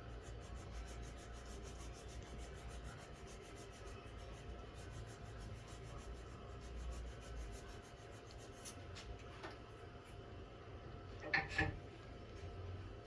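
Faint rubbing on wood, with steady faint ticking behind it and a couple of sharp clicks near the end.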